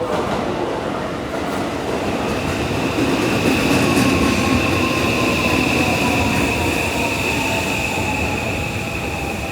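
Seibu 001 series train's Mitsubishi SiC-VVVF inverter and traction motors whining as the train runs through a station, over rumbling running noise. A steady high whine sets in about two seconds in, and a thinner tone below it falls slowly in pitch over the second half.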